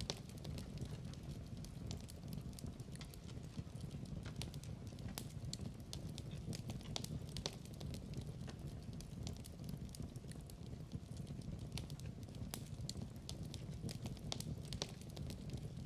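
Wood fire burning in a fireplace, crackling with many small irregular pops and snaps over a low steady rumble of the flames.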